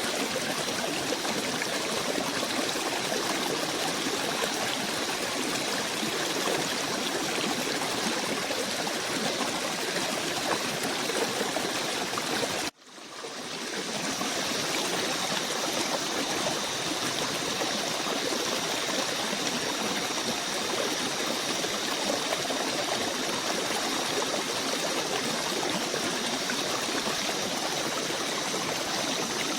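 Steady rushing of a forest stream. About 13 seconds in the sound cuts out abruptly and fades back in over a second, where the recording loops or is spliced; after that a faint, steady high-pitched ringing runs under the water.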